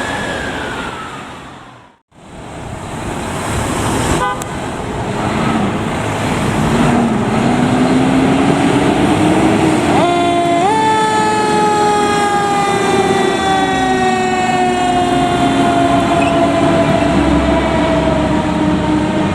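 Fire truck responding with its siren. A falling siren tone cuts off about two seconds in. Then a low wavering tone starts, and around ten seconds in a siren tone with many overtones steps up in pitch and slowly falls for the rest of the stretch.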